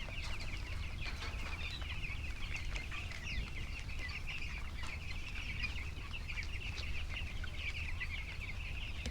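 A flock of 12-day-old broiler chicks peeping continuously, many short high cheeps overlapping, over a low steady hum.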